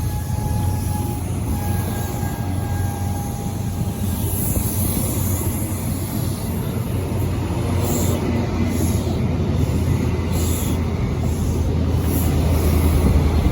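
CrossCountry HST (InterCity 125) departing, its Class 43 diesel power cars and coaches running past with a steady low drone. A thin high whine sounds in the first few seconds, and the sound grows louder near the end.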